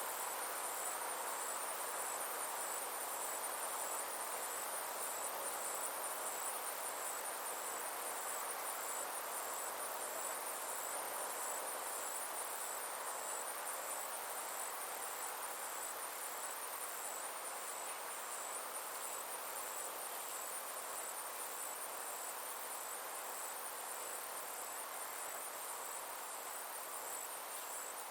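Summer insects chirring: a steady, high, fast-pulsing trill over a softer broad hiss.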